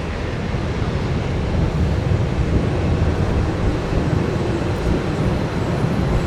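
UPS Boeing 767-300F jet engines at take-off power, a steady deep rumble that grows slowly louder.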